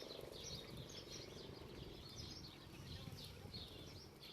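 Faint chorus of small birds chirping continuously, many short high chirps overlapping, over a low steady background rumble.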